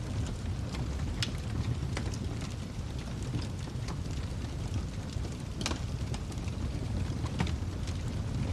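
Wood fire crackling, with scattered sharp pops over a steady low roar of the flames. The loudest pops come about a second in, a little past halfway and near the end.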